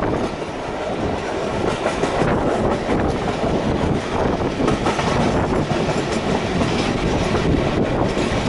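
Passenger train running at speed, heard from on board: a steady rolling rumble with the clatter of wheels on the rails.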